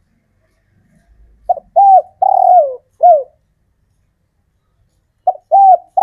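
Male spotted dove cooing: a phrase of four down-slurred coos, the third one longest, about a second and a half in, then the next phrase starting near the end. This is the male's advertising song, used to call females.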